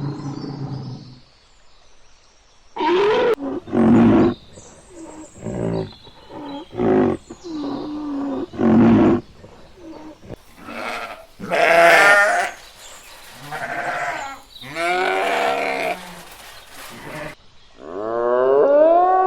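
A series of animal calls: about a dozen short pitched cries and growls, separated by brief gaps.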